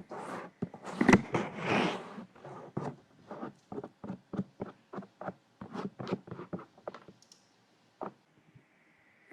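ASMR ear massage: fingers rubbing, scratching and tapping on a close microphone in short irregular strokes, busiest in the first couple of seconds and thinning out to a few light touches near the end.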